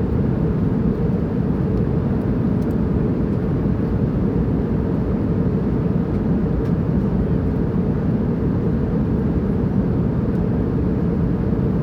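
Airplane in flight: a steady, even drone of engine and air noise, heaviest in the low pitches, with no change in level or pitch.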